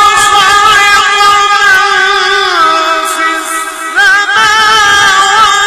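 A single male voice chanting a long melismatic Arabic religious phrase, holding notes while the pitch wavers and slides. The voice dips briefly just before four seconds in, then starts a new phrase with an upward slide.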